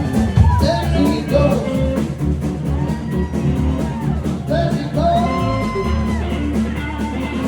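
A live band playing with a singer: sung notes held and sliding over bass and a steady drum beat with regular cymbal ticks.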